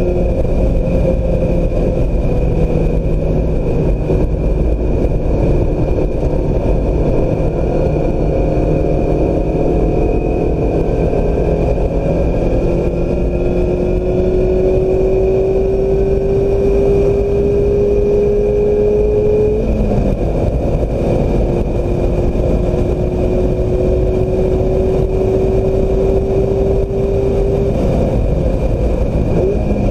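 2016 Mazda MX-5 Miata's four-cylinder engine pulling hard at speed under heavy wind and road noise. The engine note climbs slowly, drops suddenly about two-thirds of the way through, then climbs again and drops once more near the end.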